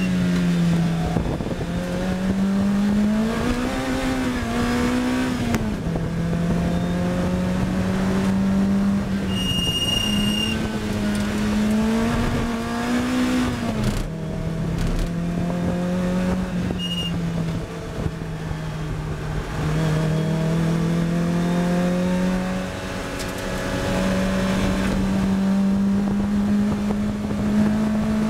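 Lotus Elise R race car engine heard from on board at speed, the note climbing under acceleration and dropping back at each gear change or lift, several times over. A brief high squeal comes about ten seconds in and again shortly before seventeen seconds.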